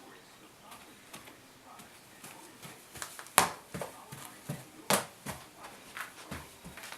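A toddler's slick hard-soled shoes clacking on a hard floor as he takes unsteady steps: sharp clicks about half a second apart, starting about halfway through.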